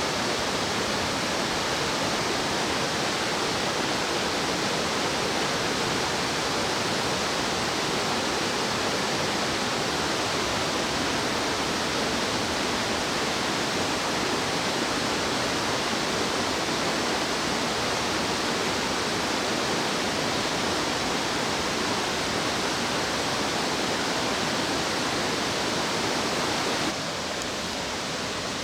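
Fast-flowing stream water rushing steadily. It drops a little in level shortly before the end.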